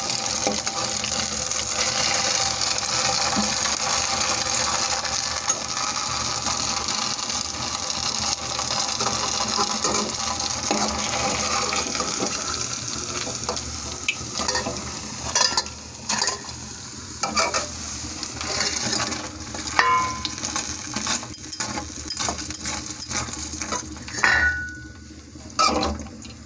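Maida-batter pua fritters sizzling in hot oil in a kadhai, a dense steady hiss. About halfway through, the sizzle thins out and a steel ladle clinks and knocks against metal pans several times as the fritters are lifted out.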